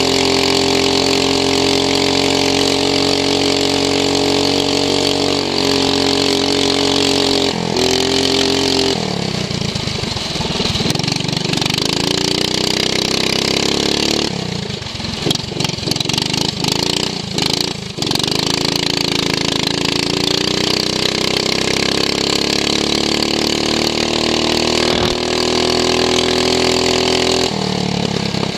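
Racing lawn mower's engine heard close up from onboard, running at high revs. The revs drop sharply twice when the throttle is lifted, go rough and uneven for a few seconds in the middle, and climb steadily again as it accelerates.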